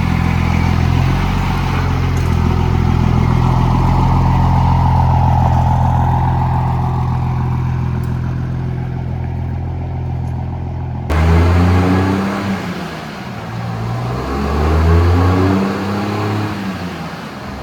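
Diesel pickup truck engine running loud and steady for about eleven seconds. It then switches abruptly to the engine being revved up and down several times.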